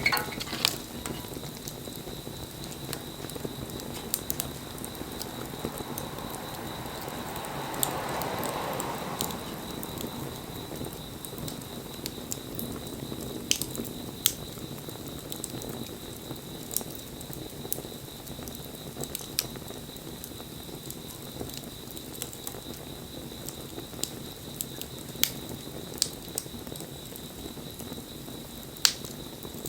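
Wood bonfire burning: a steady low rush of flame with sharp crackles and pops every second or two, swelling louder for a couple of seconds around eight seconds in.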